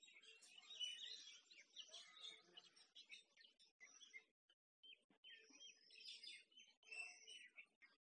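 Faint birdsong: several small birds chirping and twittering in quick, overlapping high notes, with a brief lull a little past halfway.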